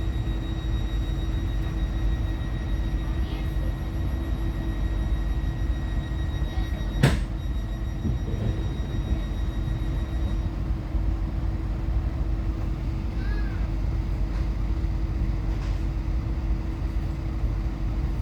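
Passenger train running, heard from inside the carriage: a steady low rumble with a constant hum. A faint high whine stops about ten seconds in, and a single sharp knock sounds about seven seconds in.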